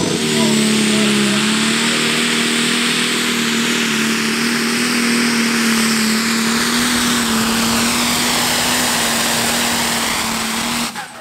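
Pro Stock tractor's single-turbo diesel engine running loud at a steady high pitch, with a high turbo whistle rising in the first second. The sound cuts off suddenly near the end.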